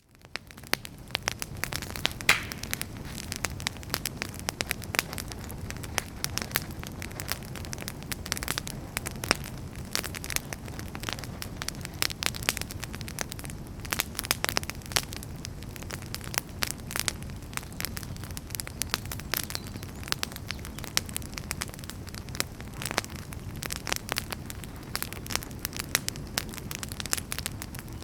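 Wood fire crackling in a fireplace: a dense, irregular stream of sharp pops and snaps over a low rumble of burning, fading up from silence at the very start.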